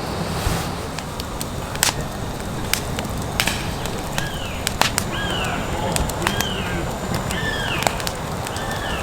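Irregular sharp crackles and pops, with a bird giving a repeated arching chirp about once a second from about four seconds in.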